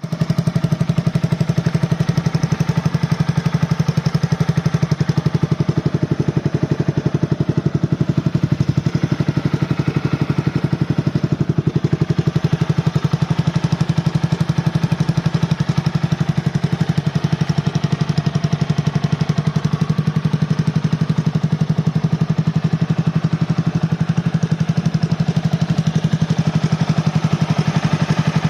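Honda CBR250R motorcycle engine with an aftermarket muffler, idling steadily at an even pitch.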